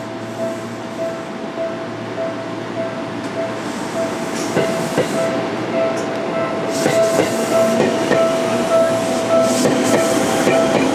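Seibu 10000-series Red Arrow limited express electric train pulling out, its wheels clacking over rail joints from about four seconds in and growing louder as the cars pass. A tone beeps about twice a second throughout.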